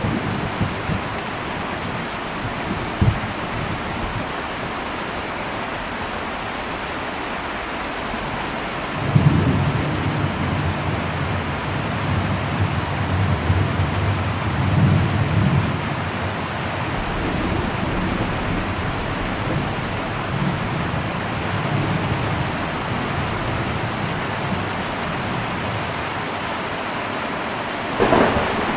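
Heavy rain drumming steadily on an old metal roof. About a third of the way in, a low roll of thunder rumbles in and slowly fades, and a sudden crack of thunder comes near the end.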